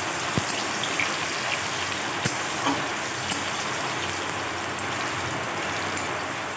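Chopped garlic sizzling in hot mustard oil in a kadai, with a few sharp clicks of a steel spatula against the pan as it is stirred.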